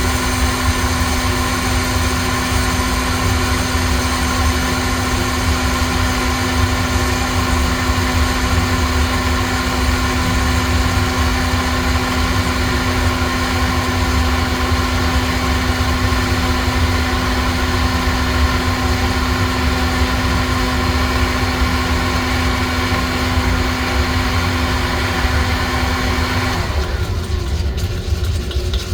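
Electric coffee-roasting equipment running steadily: a loud motor or fan noise with a constant hum. The hum and most of the higher hiss cut off about 26 seconds in, leaving a lower rumble.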